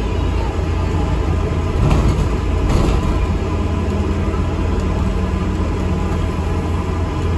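ADL Enviro 400 MMC double-decker bus on the move, with a steady low engine and road rumble. There are brief rattles about two and three seconds in, and a faint steady whine from about four seconds.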